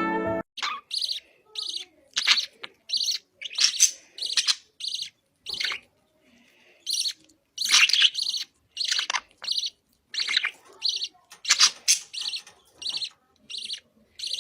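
A bird chirping over and over: short, high calls at about two a second, some louder and longer than others.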